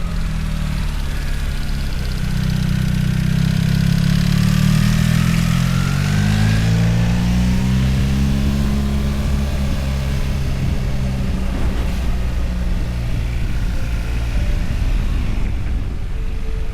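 Motorcycle engine running under way, with rushing wind noise. The engine's pitch rises and falls through the middle of the stretch as the speed changes.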